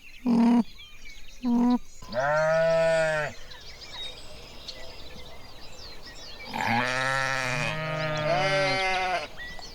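Bleating farm animals: two short bleats, then a long wavering bleat, then several overlapping bleats from at least two animals at different pitches near the end. Birds chirp faintly behind.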